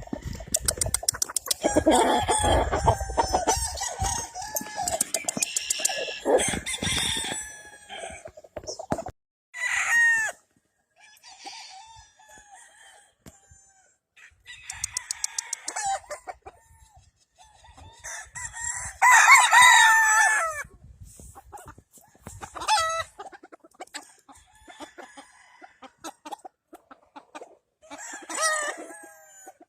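Gamefowl roosters crowing several times, one after another, with clucking between the crows. The loudest crow comes about two-thirds of the way through.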